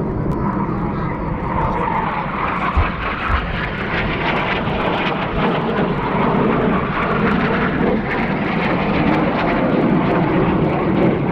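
Airplane engine noise, steady throughout, from an aircraft flying at close range. Two short low thumps come about three seconds in.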